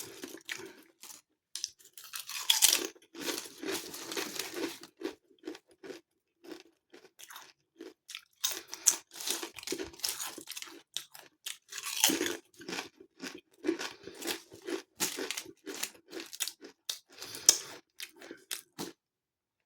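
Someone chewing a mouthful of Lidl Selections Thai sweet chilli potato crisps close to the microphone: many short, irregular crunches. These crisps are a drier crisp, with no oil coming through.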